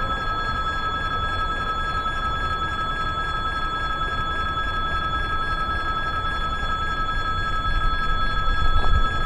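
Electric warning bell of a railway level crossing ringing steadily, over a low rumble that swells near the end.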